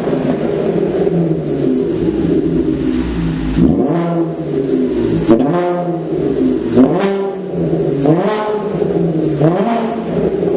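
Volkswagen Bora's exhaust through a one-off custom rear muffler: the engine runs steadily and is revved in short blips about five times, the pitch rising and falling back each time.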